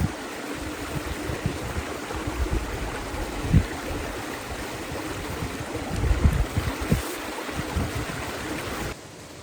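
Creek water running with a steady rushing sound, with gusts of wind buffeting the microphone. It cuts to a quieter, even hiss near the end.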